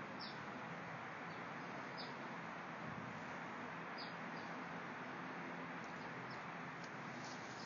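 A small bird chirping outdoors: short, high chirps that fall in pitch, every second or two, over a steady background hiss.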